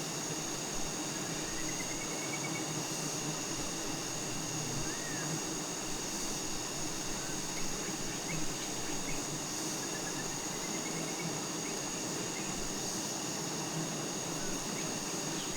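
Forest ambience: a steady high-pitched insect drone over a low even hum, with a few faint short bird chirps.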